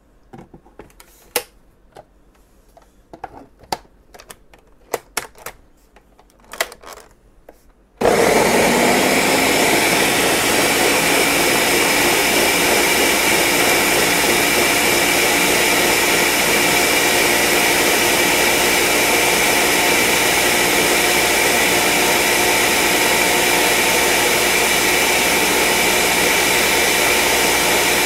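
A few scattered clicks and knocks, then about eight seconds in an electric countertop blender starts abruptly and runs at a steady speed, blending peeled citrus fruit, onion and garlic in a little orange juice.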